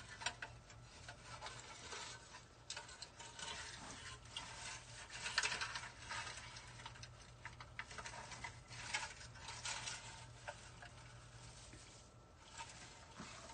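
Rustling and small clicks of wreath materials being handled, such as artificial evergreen greenery and wire, with a louder rustle about five or six seconds in. A faint steady hum runs underneath.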